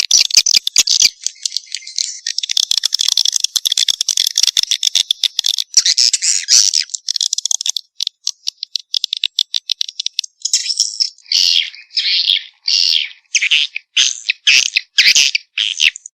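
Swiftlet calls from a lure track played to draw swiftlets into a nesting house: dense, fast chattering clicks and chirps. They break off for about two seconds past the middle, then return as separate short chirping bursts, about two a second.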